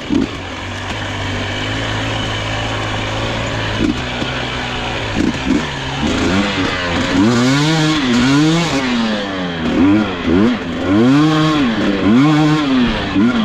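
Dirt bike engine running at a steady note, then from about five seconds in revving up and down in repeated throttle blips, each rising and falling in pitch, as the rider works the throttle through a technical section.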